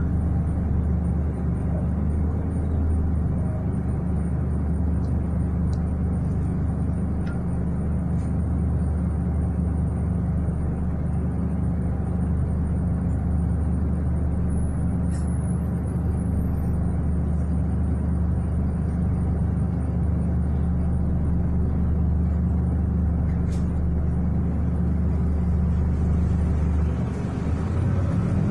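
City bus engine running steadily with a low hum, heard from inside the passenger cabin. Near the end the engine's pitch begins to rise as the bus accelerates.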